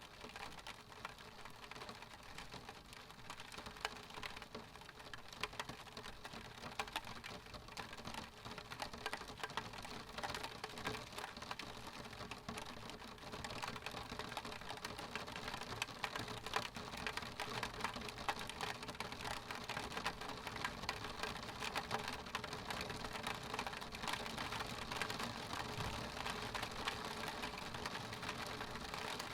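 Rain pattering on window glass: a dense, steady spatter of fine drop ticks that builds slightly louder over the stretch.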